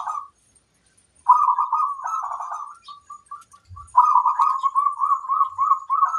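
Zebra dove (perkutut) cooing in soft, bubbling phrases of rapid notes. One phrase ends just after the start, another comes about a second in, then a string of short separate coos, and a longer rolling phrase begins about four seconds in.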